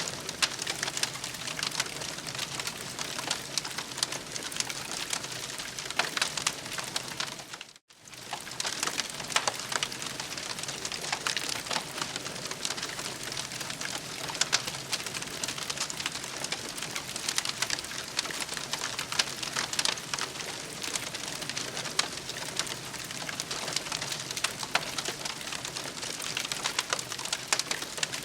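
Campfire crackling: a dense stream of small crackles over a steady hiss. It cuts out for a split second about eight seconds in.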